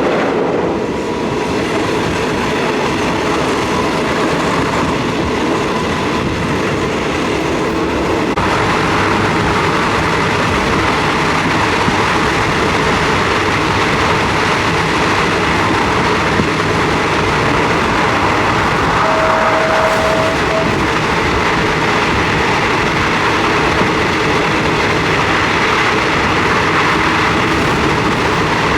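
A passenger train running along the track: a steady, loud rumble and rattle of the wheels and carriage. The noise brightens about eight seconds in, and there is one brief steady tone a little past the middle.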